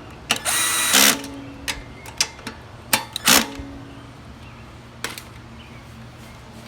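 Cordless drill fitted with a socket, running in two short bursts to tighten bolts, with clicks from handling the tool and parts in between.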